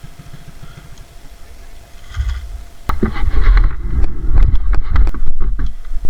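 Trail motorcycle engine running low, then getting loud about three seconds in with a heavy rough rumble and many sharp knocks.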